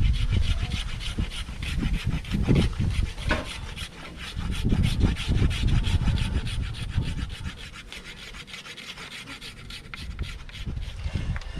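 Rustling and rubbing close to the microphone, with heavy low handling thumps that ease off about halfway through.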